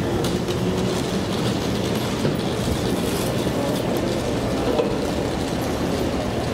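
Nankai 7100-series electric train pulling out of a station platform, running steadily with its wheels clicking over the track as it moves away.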